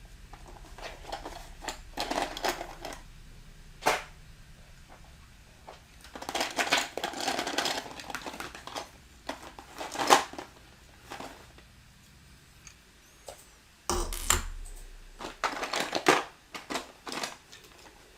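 Loose plastic building bricks clattering and rattling in bursts as hands rummage through a container of parts, searching for pieces. The sharpest clatters come about ten seconds in and again about fourteen seconds in.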